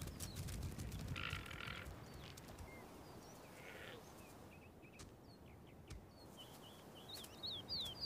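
Faint, shrill guanaco alarm calls, one about a second in and another around four seconds, over a low wind-like background. Near the end comes a run of short high bird chirps.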